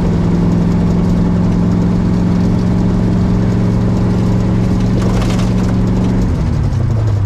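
Pontiac Firebird's engine and exhaust droning at a steady cruise, heard from inside the cabin. About six seconds in, the pitch drops as the throttle is lifted.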